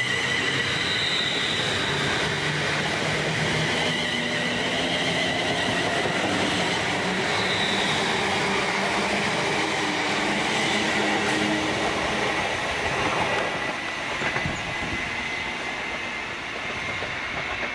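Class 350 Desiro electric multiple unit passing close at speed: a steady rattle of wheels on the rails with a high steady whine. The sound fades over the last few seconds as the train draws away.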